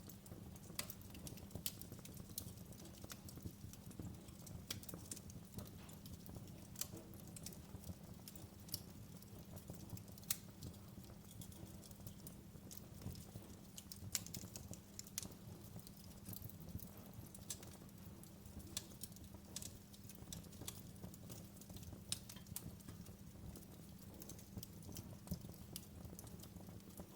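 Wood fire crackling in a fireplace: irregular sharp pops and snaps over a steady low rumble, with one louder pop about ten seconds in.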